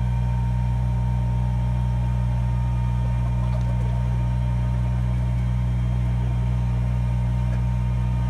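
Kubota BX23s compact tractor's diesel engine running steadily at idle, a constant low drone with a faint steady whine above it.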